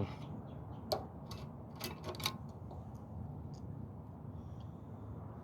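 Several light, sharp clicks and taps of hand tools and small metal parts being handled, bunched between about one and two and a half seconds in.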